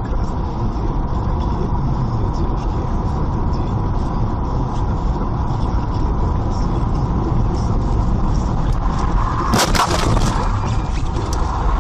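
Car driving, with steady engine and road rumble, and a sudden loud burst of noise about nine and a half seconds in.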